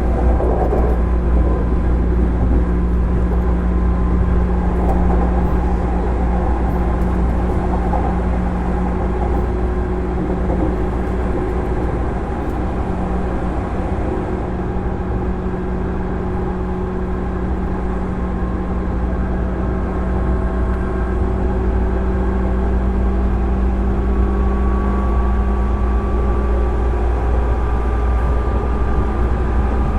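Running sound aboard a 205 series electric train motor car, its MT61 externally fanned traction motors humming steadily over a low rumble of wheels on rail. A higher motor tone rises slowly in the last third.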